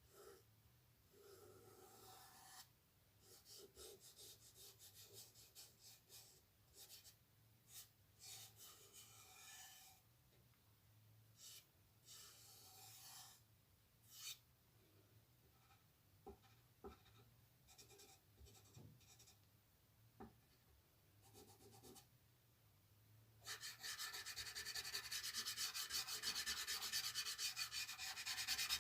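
A drawing tool scratching on paper: short strokes with pauses, then near the end a louder run of rapid back-and-forth shading strokes.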